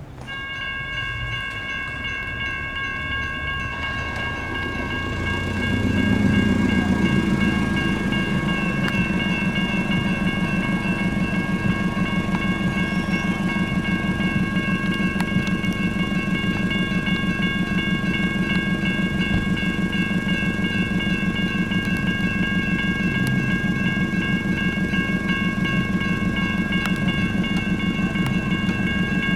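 Railroad crossing electronic bell (GS Type 1 E-Bell) starting to ring just after the crossing activates, a rapid steady ringing that continues throughout. About six seconds in, a louder, lower ringing sound joins it and carries on alongside.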